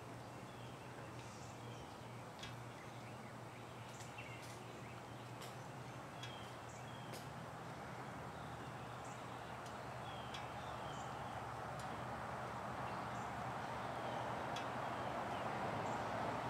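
Birds chirping in short, scattered calls over a low steady hum. A broad rushing noise swells over the second half.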